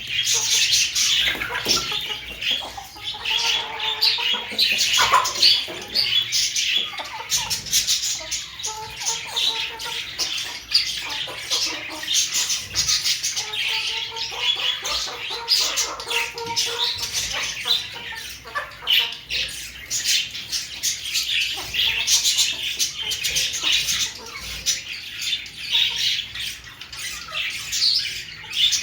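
Aseel chickens squawking and chirping without pause: dense high chirps throughout, with lower, drawn-out calls rising above them at several points.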